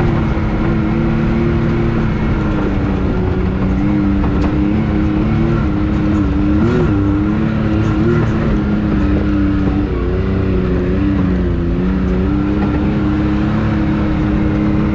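Can-Am Maverick X3 side-by-side's turbocharged three-cylinder engine running steadily at low trail speed on a climb, its note wavering a little in pitch as the throttle changes.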